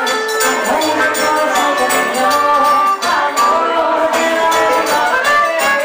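Live forró band playing a steady, rhythmic groove: accordion and guitar over zabumba drum and jingling hand percussion.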